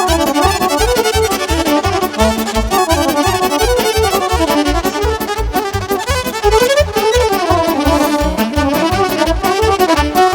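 Romanian party music played live: an accordion runs a fast, winding melody over a steady, quick bass-and-drum beat.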